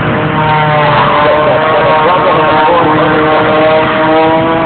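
Propeller aircraft engine droning overhead: a loud, steady pitched hum with several tones that shift slightly in pitch.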